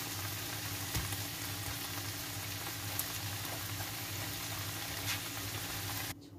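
Mixed vegetables in sauce sizzling steadily in a nonstick wok as strips of atta dough are dropped in, with a couple of faint clicks. The sizzle cuts off just before the end.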